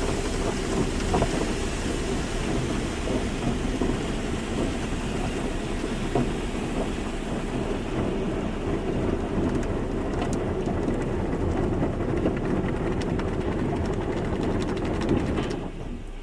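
Automatic car wash running: a dense, steady rush of spraying water and machinery with a low hum and scattered small patters. The spray falls away sharply near the end.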